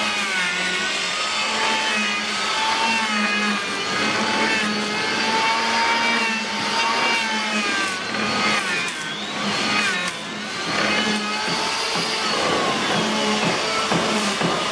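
Electric power tool motor running steadily, its whine wavering up and down in pitch as the load on it changes.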